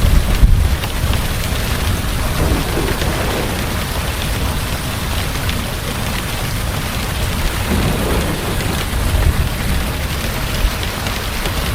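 Heavy rain falling steadily, with low rumbling thunder underneath, loudest about half a second in and swelling again near the eight-second mark.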